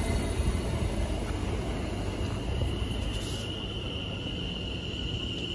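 London Overground Class 710 electric train running alongside the platform, a low rumble of wheels and motors that slowly fades. A steady high-pitched tone sounds over it.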